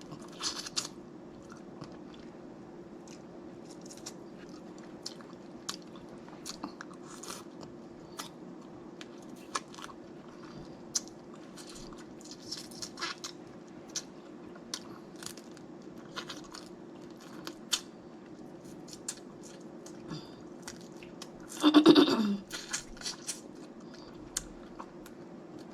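Close-up chewing and biting of snow crab legs, with scattered sharp clicks and crunches of shell and mouth sounds. Near the end comes a short, loud vocal sound that falls in pitch.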